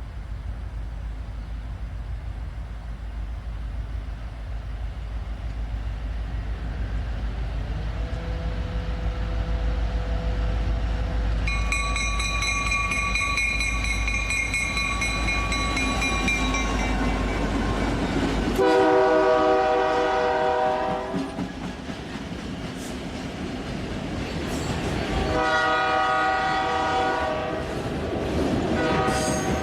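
Train rumbling past with a steady deep drone, then sounding its air horn: a loud blast a little after the midpoint, a second blast a few seconds later, and a third beginning at the very end.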